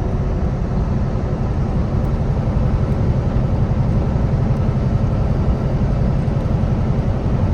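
Steady in-cab drone of a Kenworth T680 semi truck on the highway: engine and road noise, deep and even throughout.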